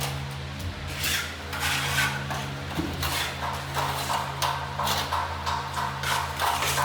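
Repeated short scraping and knocking strokes, roughly two to three a second, over a steady low hum.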